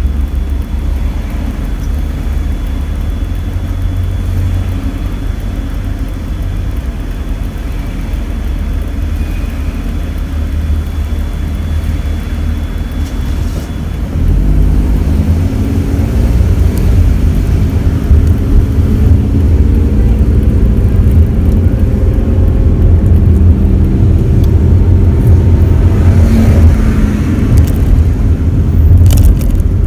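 Daihatsu Esse kei car running with a steady low rumble; about halfway through it gets louder and the engine note climbs gradually as it picks up speed.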